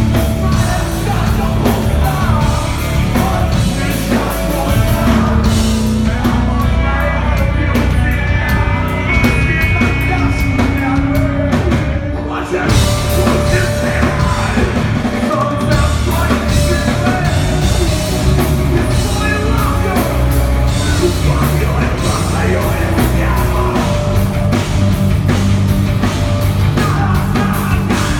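Live heavy rock band playing loud with a singer, drums and guitars. The sound briefly thins out about twelve seconds in, then the full band carries on.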